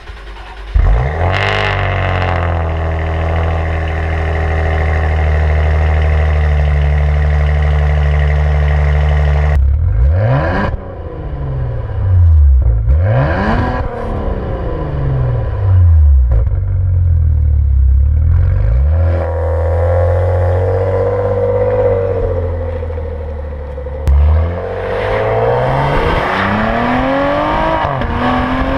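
Maserati Levante engine starting up about a second in and settling to a steady idle. It is then revved in several quick blips that rise and fall back, and near the end the revs climb.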